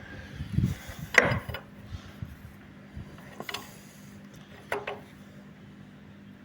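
A spanner tightening a fuel-line fitting on a diesel engine: a few separate metallic clicks and knocks, spaced a second or more apart, over a faint steady hum.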